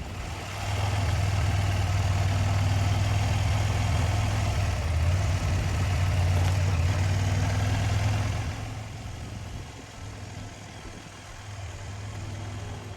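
Motorcycle engine running steadily on the road with wind and road noise, dropping to a lower level about eight and a half seconds in.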